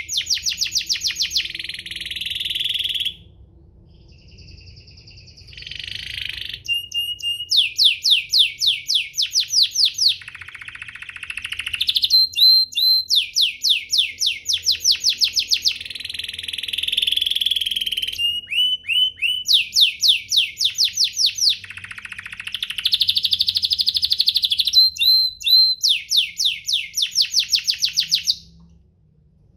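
Domestic canary singing: long phrases of rapid trills made of fast repeated sweeping notes, with short pauses between phrases.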